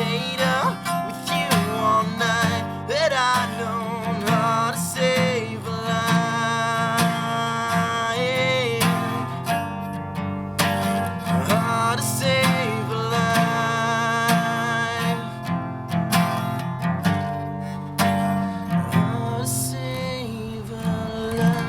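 Strummed acoustic guitar accompanying a man singing.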